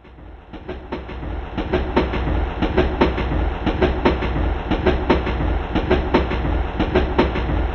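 Rail car running on track: a steady low rumble with a rhythmic clickety-clack of wheels over rail joints, about two to three clacks a second, building up over the first second.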